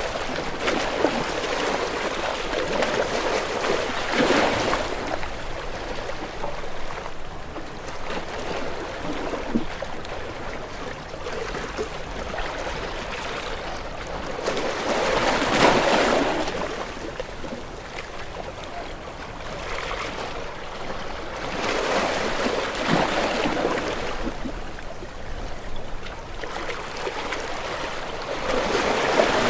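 Ocean waves breaking and washing in, a steady rush of water that swells and ebbs in uneven surges several seconds apart, loudest about halfway through and again near the end.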